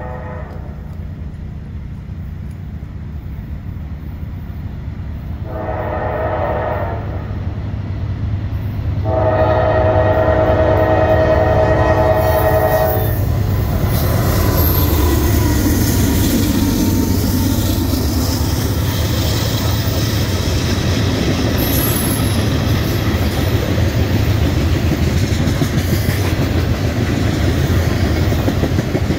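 Diesel locomotive horn sounding a short blast and then a long one, ending its grade-crossing signal, over the low rumble of the approaching engine. About halfway through the locomotive passes close by, and the crude oil tank cars follow with a steady rolling rumble and wheel clickety-clack.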